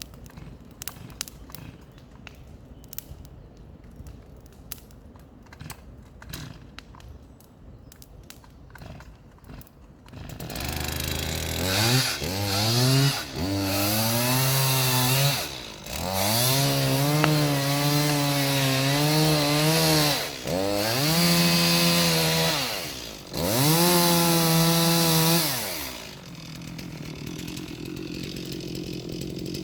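Stihl chainsaw coming in about ten seconds in, revved up hard five times with short drops in pitch between, then settling to a steady idle near the end. Before it, only light scattered clicks.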